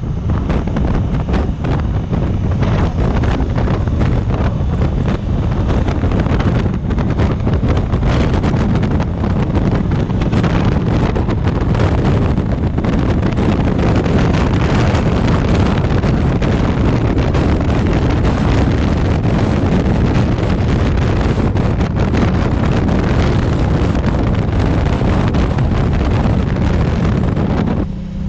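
Steady, loud wind buffeting on the microphone of a Honda African Twin motorcycle riding at cruising speed, with the bike's running and road noise underneath. It eases briefly just before the end.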